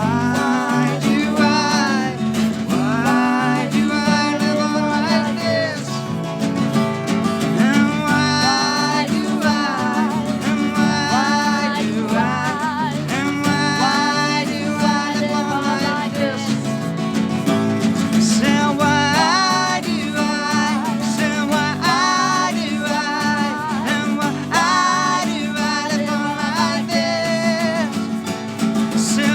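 Live band music with guitar, an instrumental stretch over a steady low bass pattern, with a lead melody sliding up and down in pitch above it.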